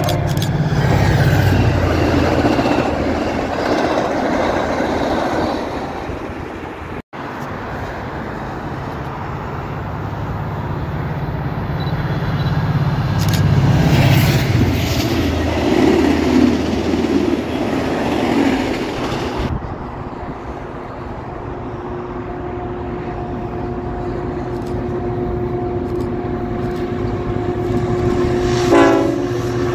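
VIA Rail passenger train, a diesel locomotive hauling LRC coaches, passing at speed: engine running and wheels rumbling steadily on the rails. Near the end a steady tone comes in as a CN freight led by diesel locomotives approaches.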